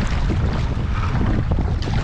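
Strong wind buffeting the microphone in a loud, steady rumble, with irregular water splashes from the paddling raft.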